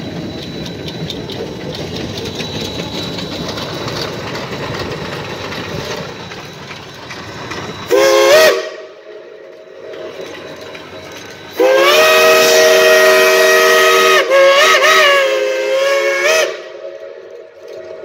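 Geared steam locomotive's chime whistle, several notes sounding together: a short toot about eight seconds in, then a long blast of about five seconds with a brief break and a wavering pitch near its end. Before the whistle there is a steady rushing noise.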